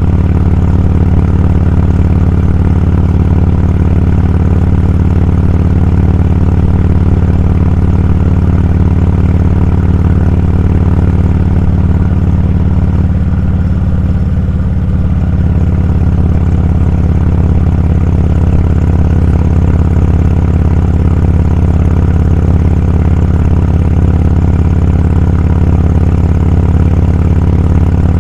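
Motorcycle engine running steadily under way, with a brief slight dip in level about halfway through.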